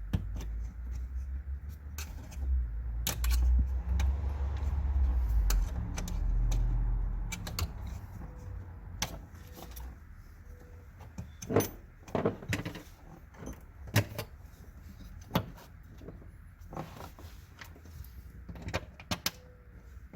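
Low rumble of handling for the first seven seconds or so, then a run of separate sharp clicks and knocks at uneven intervals as car trim parts and clips are handled and fitted.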